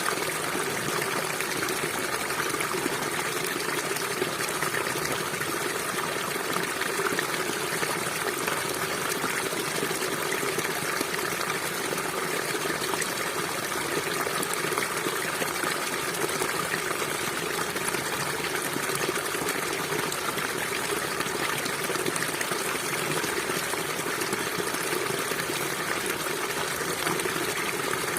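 River water flowing steadily, an even, unbroken rush with no changes.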